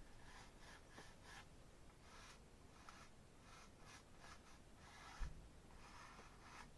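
Faint, scratchy strokes of a paintbrush dragged across an oil-painted canvas, several short strokes in a row, with a soft low bump about five seconds in.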